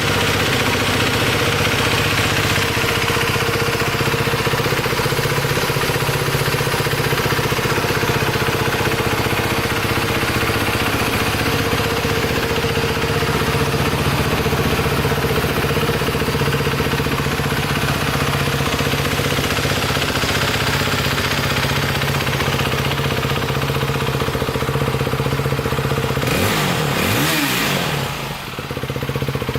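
CCM GP450 Adventure's 450 cc single-cylinder four-stroke engine idling steadily, with one blip of the throttle near the end that rises and falls in pitch.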